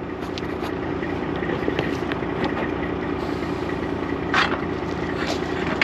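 Detroit diesel truck engine idling steadily, with a couple of short metallic knocks near the end as trailer bows are handled.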